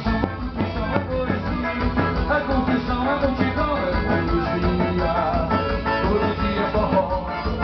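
Live band music played over a PA, with guitar, drums and a sung or melodic line over a steady beat.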